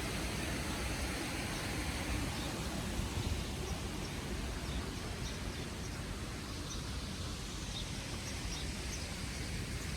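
Steady outdoor background noise, with wind rumbling on the microphone and faint, short, high bird chirps scattered through the second half.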